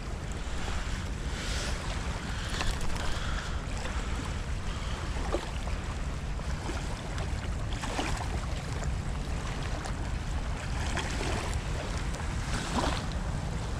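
Steady rush of water pouring from a rain-swollen outflow, with wind buffeting the microphone and a few faint knocks.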